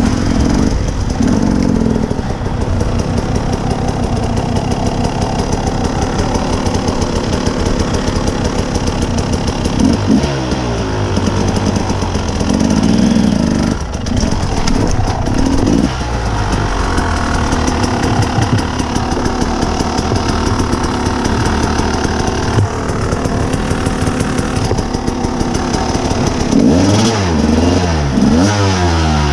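Dirt bike engine running under way, the revs rising and falling as the throttle is worked, with several quick rev swings near the end.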